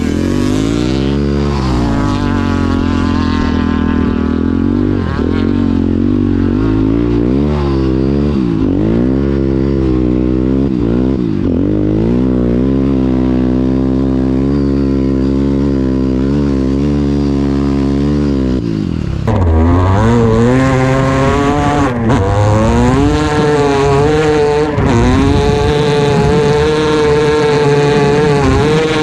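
KTM EXC-R 530 four-stroke single-cylinder motorcycle engine under load, its revs climbing and dropping every second or two as the rider works the throttle and gears through snow. About two-thirds of the way through it changes abruptly to a louder motorcycle engine held at high, fairly steady revs.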